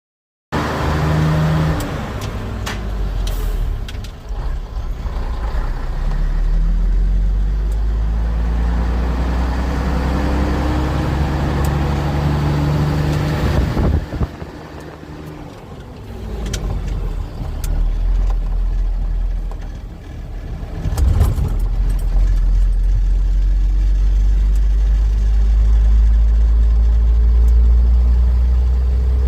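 1973 Scania 110 Super truck's six-cylinder diesel running under load, its note rising for several seconds at a time. The engine drops back about halfway through and again about two-thirds in, then runs steady and heavy, climbing again near the end.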